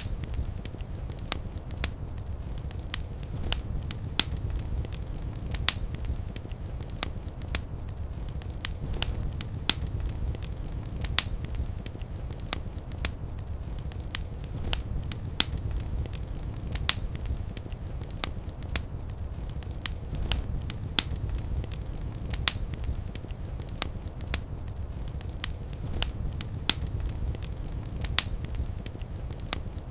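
Wood fire crackling: a steady low rumble of burning with frequent sharp, irregular pops and snaps.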